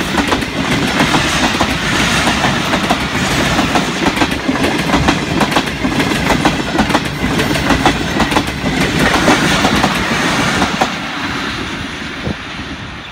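Passenger coaches of a Pakistan Railways express train passing close by, their wheels clattering over the rail joints in a quick, uneven run of clicks. The sound fades away about eleven seconds in as the last coach goes by.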